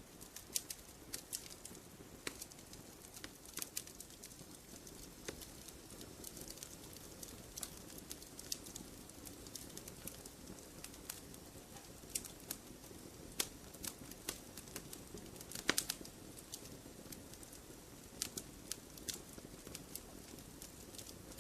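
Fireplace fire crackling: irregular sharp pops and snaps over a soft steady hiss, with a louder cluster of pops about fifteen seconds in.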